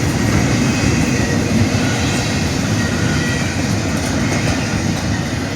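Freight train cars rolling past at trackside, a steady, loud rumble of wheels on rails that eases slightly near the end.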